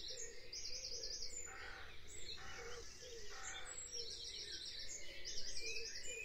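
Faint birds chirping in the background: three short bursts of rapid, high repeated chirps, with softer lower calls between them, over a low steady room noise.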